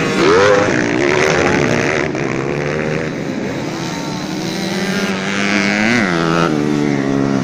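Several racing dirt-bike engines, their pitch rising and falling repeatedly as the riders rev and change gear.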